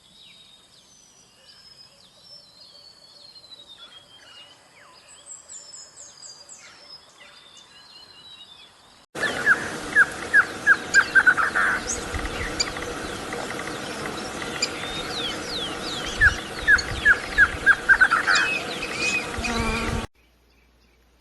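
Birds chirping and calling: faint whistled, gliding chirps at first. After a sudden cut about nine seconds in, louder chirping follows, with two quick runs of sharp repeated notes, and it stops abruptly near the end.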